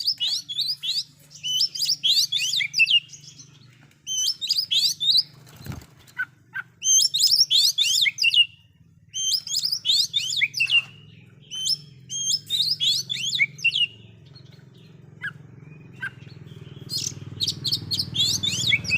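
Oriental magpie-robin (kacer) singing loudly: rapid phrases of chirps and whistles packed with mimicked notes, in bursts of a second or two separated by short pauses. A low steady hum runs underneath and grows louder near the end.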